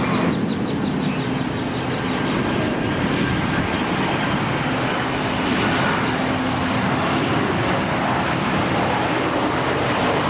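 Airplane engines running loud and steady: a continuous rush of noise with a low hum underneath.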